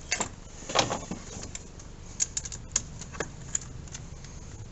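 Irregular metallic clicks and taps of a 10 mm wrench turning a bolt to mount an oil catch can, with a small cluster of quick clicks a little after two seconds in.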